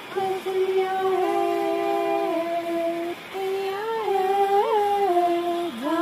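A girl's high voice humming or singing wordlessly in long held notes, with a brief pause about halfway and small slides between pitches.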